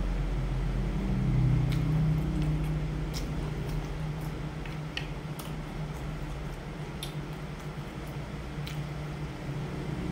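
A person chewing a mouthful of bánh tráng trộn (rice paper salad) with the mouth closed, giving scattered small wet clicks and crackles, over a steady low hum.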